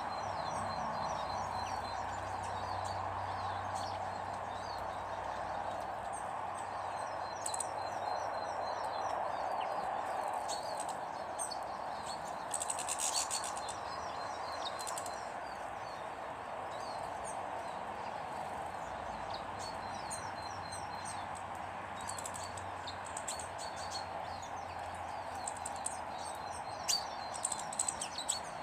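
Small birds chirping and twittering again and again, over a steady background hiss. A short rustling burst comes about halfway through.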